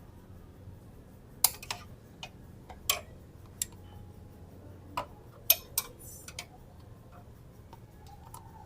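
Irregular sharp metallic clicks and taps, about a dozen scattered through, from hand tools working on motorcycle parts.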